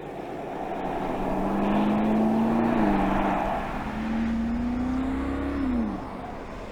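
BMW X6 M50i's twin-turbo V8 pulling under acceleration, its note climbing slowly. The note dips about three seconds in, climbs again, then falls away near the end.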